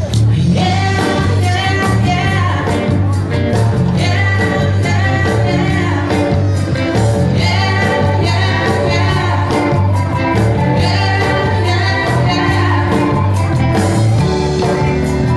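A band playing a song live: a sung lead vocal over a steady heavy bass and drums.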